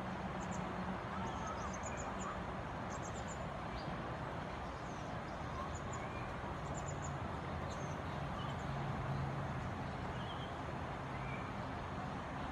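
Steady urban traffic noise with a low hum, and faint, short, high-pitched bird chirps scattered through it.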